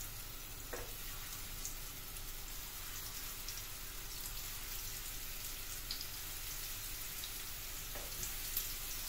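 Köfte meatballs frying in hot oil in a pan: a steady sizzle with a few light crackles.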